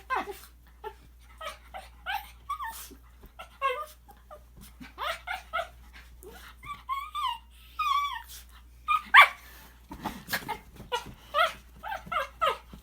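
Shih Tzu making weird vocal noises: a rapid string of short whines, yips and grumbling growls that bend up and down in pitch.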